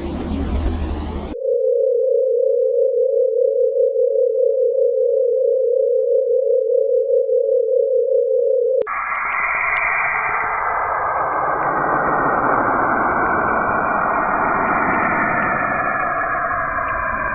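Sonified space data, three sounds in turn. A hiss cuts off about a second in. A steady mid-pitched tone with a slight flutter holds for about seven seconds. It then switches abruptly to a dense, rushing noise with layered tones in it.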